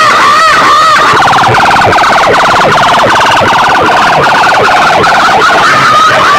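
Electronic siren effect played very loud through large DJ loudspeaker stacks. A wailing up-and-down yelp repeats about two or three times a second, switches about a second in to a fast rattling warble, and goes back to the wail near the end.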